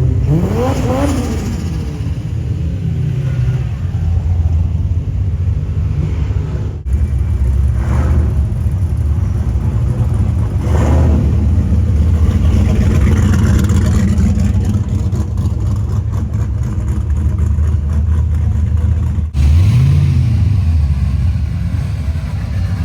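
Car engines rumbling steadily, with a quick rev that rises about a second in and another that rises and falls near the end. The sound breaks off abruptly twice.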